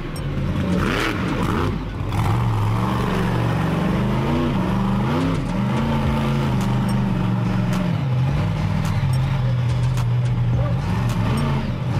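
Monster truck engine running hard at a steady pitch, with a few brief revs that rise and drop back about four and five seconds in.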